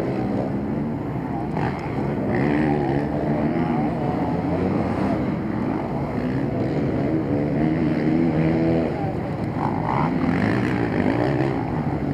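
Several motocross bikes' engines running hard and revving, their pitch climbing and dropping as riders accelerate and shift, with a clear rising whine about eight seconds in.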